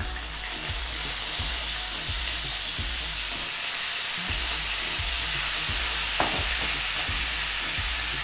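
Boiled bitter gourd pieces, still wet, sizzling steadily in hot mustard oil in a pan. One short knock about six seconds in.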